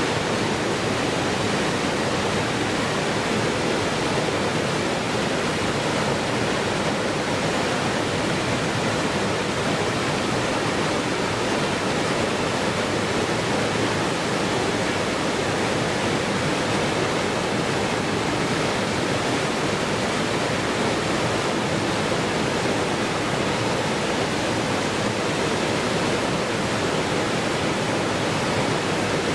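Waterfall rushing in a steady, unbroken roar of water noise that does not change.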